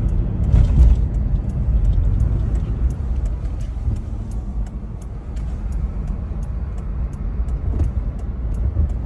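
Low, steady rumble of a moving vehicle, with faint high ticking at about three a second starting around three seconds in.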